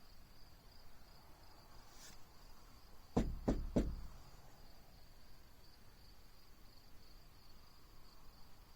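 Crickets chirring steadily in a high, thin drone. About three seconds in come three quick sharp knocks in a row.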